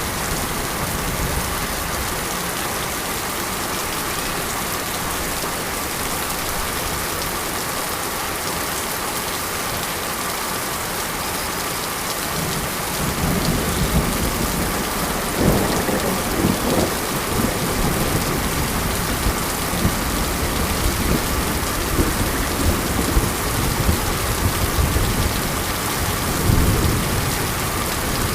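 Steady rain falling, with low rumbles of thunder coming in about halfway through.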